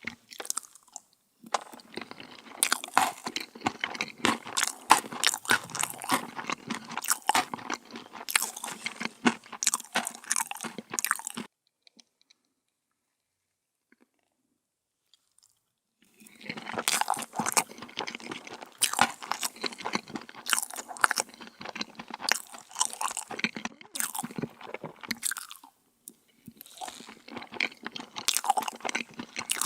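Close-up crunchy chewing of a dessert in a mouth, in two long bouts of dense crackling bites with a few seconds' pause between them; the chewing starts again near the end.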